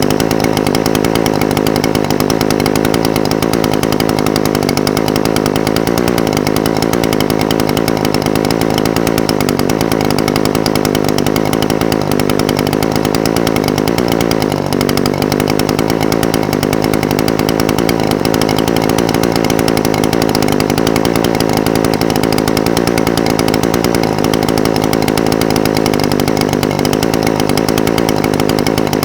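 Echo SRM-420TES brush cutter's two-stroke engine idling steadily, its pitch wavering slightly, with a brief stumble about halfway through.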